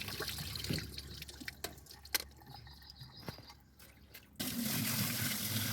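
Water dripping and trickling with scattered sharp drips, then about four seconds in a steady flow of water starts suddenly: water run through a top-load washing machine's just-cleared drain to flush out detergent deposits.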